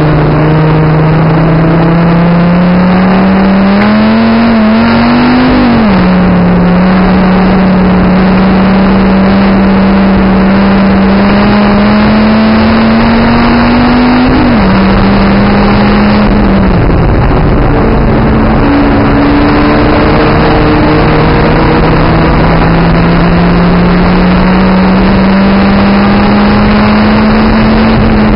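Dodge Viper ACR's 8.4-litre V10 pulling hard, heard from inside the car: the engine note climbs steadily and drops sharply at upshifts about six and fifteen seconds in, then rises slowly for the rest of the run as speed passes 120 mph. Heavy wind and road noise run underneath.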